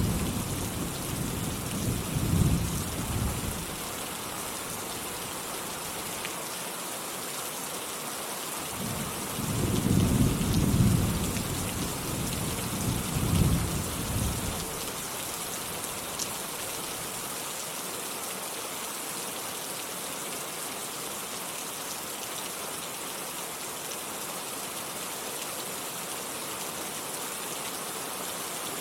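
Steady rain falling, with two rolls of thunder rumbling low: one fading out about three seconds in, another from about nine to fourteen seconds in. Only the rain continues after that.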